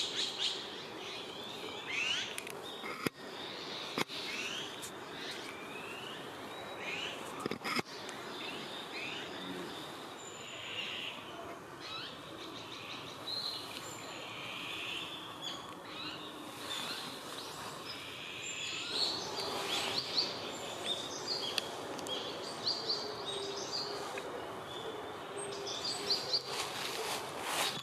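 Several small woodland birds chirping and calling, short notes and quick sweeps overlapping throughout, with a few sharp clicks in the first part.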